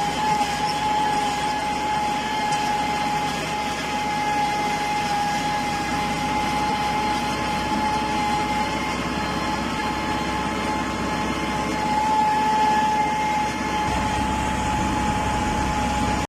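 Bull Power 577 tractor engine running steadily under load while pulling a 14-disc harrow, with a steady high whine over the engine noise.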